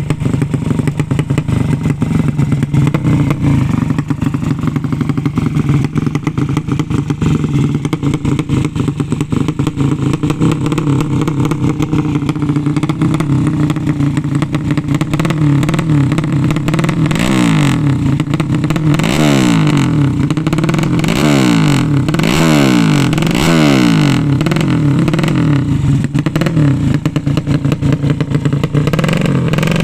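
200 cc drag-racing motorcycle engine idling steadily, then revved in a run of quick throttle blips from a little past halfway, each rev rising and dropping back fast.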